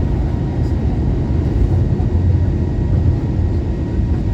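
Steady low rumble of an Airbus A321neo's engines and airflow, heard from inside the passenger cabin.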